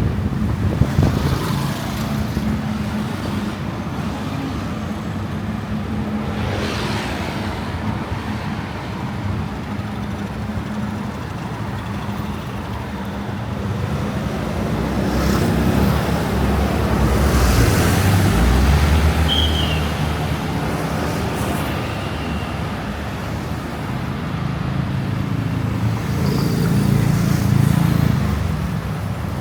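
City street traffic: car and motorbike engines running and vehicles passing close by, in a steady rumble. It swells as heavier vehicles go past, around the middle and again near the end.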